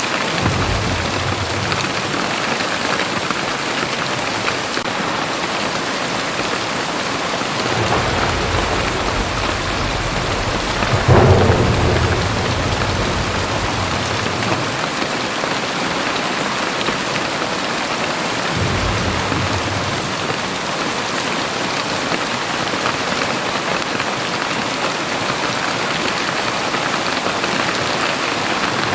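Very heavy rain pouring steadily, with several low rolls of thunder; the loudest thunder swells about eleven seconds in.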